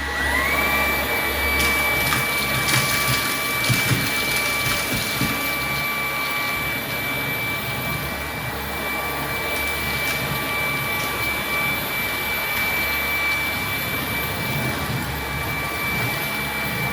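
Ryobi ONE+ HP brushless dual roller stick vacuum switched on high, its motor whine rising briefly as it spins up and then holding steady with the rush of suction air. Scattered clicks and rattles in the first few seconds are Cheerios being sucked up off a hardwood floor.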